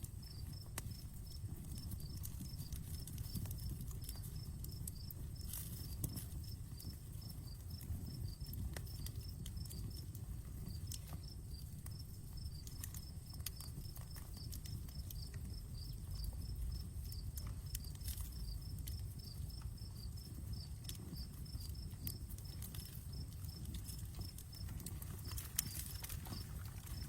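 Campfire crackling, with scattered sharp pops over a low, steady rumble of burning wood. Crickets chirp steadily alongside in a fast, even series, with a brief gap now and then.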